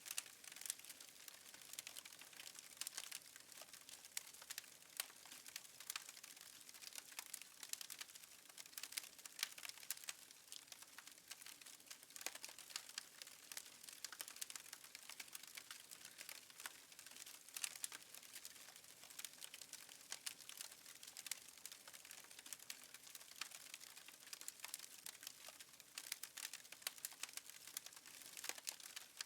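Fireplace wood fire crackling faintly: a steady stream of irregular small pops and snaps.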